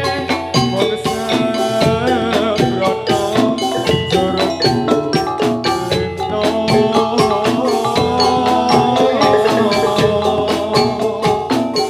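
Gamelan music for a jathilan horse dance: metallophones struck in a fast, busy pattern over drums, played steadily and loud.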